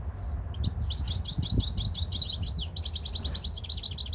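European goldfinch singing: a fast twittering run of many short, high notes that starts about half a second in, over a steady low rumble.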